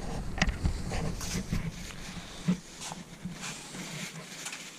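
Scattered light clicks and rubbing from handling and wiping the dirt bike's plastic throttle parts.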